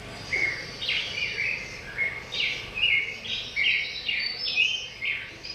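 Birdsong: a steady run of short high chirps and quick downward-sliding whistles, two or three a second.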